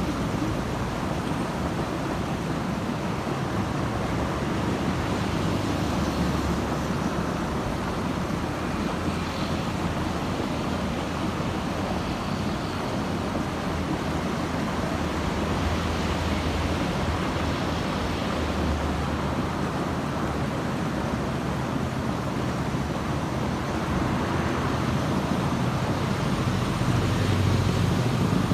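Road traffic: a steady rumble of passing vehicles, growing louder near the end as a heavier vehicle draws close.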